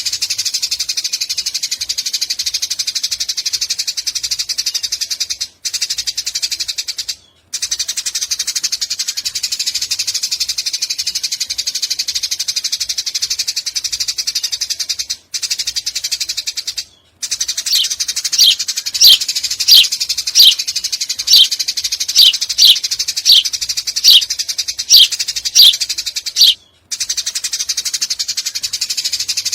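A Eurasian tree sparrow keeps up a long, rapid, high chattering 'nyecret' call, broken by a few brief pauses. About two-thirds of the way in, a run of loud, sharp falling chirps, about two a second, rings out over the chatter for some eight seconds.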